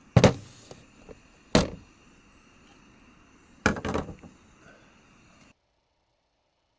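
Three heavy thunks, a second and a half to two seconds apart, the last with a short rattle after it; a little past halfway the sound cuts off to dead silence.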